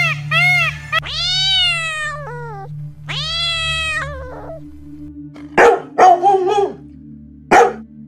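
Peacock calling twice in short arched honks at the start, then a domestic cat meowing twice in long rising-and-falling meows, then a dog barking several short sharp barks near the end, over a low steady background drone.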